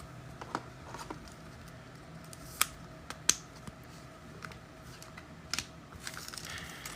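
Trading cards being handled at a table: a few scattered light clicks and taps over a faint steady hum.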